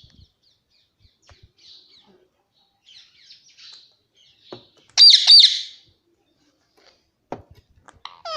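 Pet parakeet calling: faint soft chirps and clicks, then one loud harsh screech about five seconds in, followed by two shorter calls near the end.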